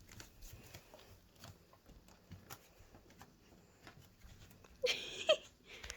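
Faint scattered light taps and pattering, then about five seconds in a short, high, wavering whimper from a young puppy.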